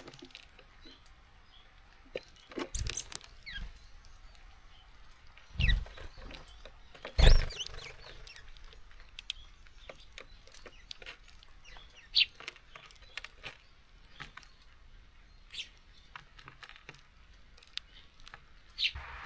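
Small birds at a garden seed feeder: sharp taps and knocks from birds pecking at seeds and landing on the feeder, with a few heavier thumps and scattered short chirps.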